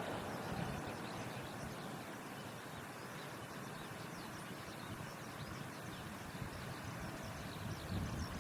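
Outdoor ambience of many small birds twittering in short high chirps over a steady low rumble, while a loud rushing noise fades away in the first second.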